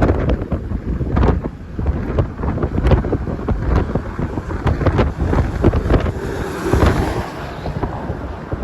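Strong wind buffeting the microphone: a loud, uneven low rumble broken by sharp crackles.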